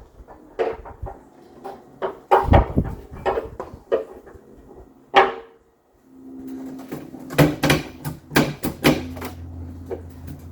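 Sharp metallic clanks and knocks of a segmented water heater anode rod being handled and fed down into the tank. In the second half a steady low hum sits under a further cluster of knocks.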